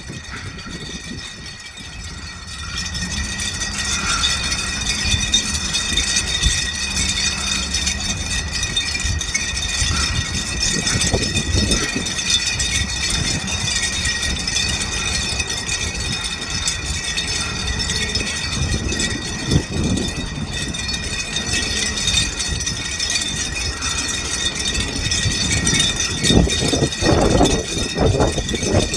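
Metal warning chimes on a bridge ringing continuously in the wind, many high tones overlapping, louder from about two and a half seconds in. Low wind rumble underneath.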